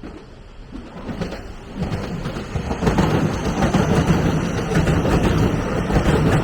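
A train passing close by. Its rumble of wheels on rail builds over the first two to three seconds, then holds loud and steady, with a run of sharp clicks through it.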